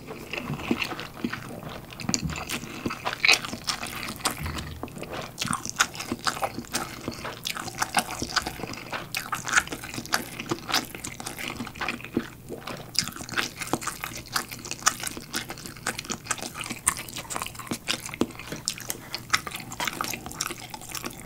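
Close-miked chewing of a mouthful of instant cup ramen noodles with the mouth closed: a dense, irregular run of quick mouth clicks.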